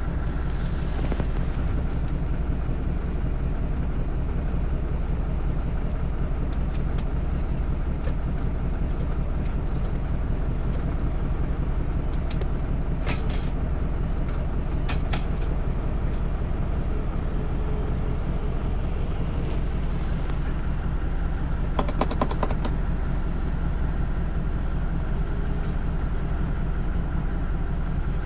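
City bus engine running with a steady low drone, heard from inside the cabin. A few sharp ticks come about halfway through, and a quick rattle of clicks about three-quarters of the way in.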